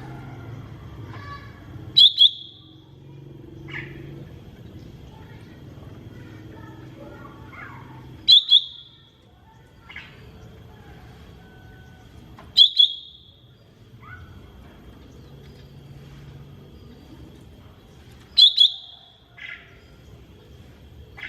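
Cucak ijo mini (small green leafbird) calling: four loud, sharp double notes, several seconds apart, with softer short notes between them. A faint steady high tone and low background noise run underneath.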